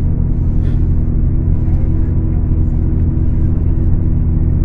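Scania K410 coach's diesel engine running at a steady pitch under way, with a low rumble of the bus on the road.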